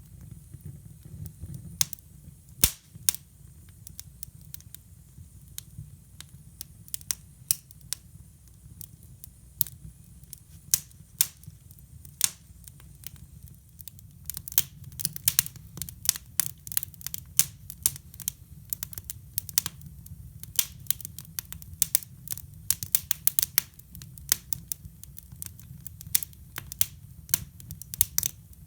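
Wood fire burning in a hybrid fireplace: irregular sharp crackles and pops, much more frequent from about halfway through, over a steady low rumble.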